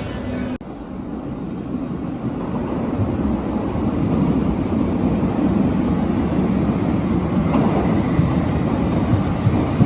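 Berlin U-Bahn large-profile train running, a low rumble that grows steadily louder after a sudden change about half a second in.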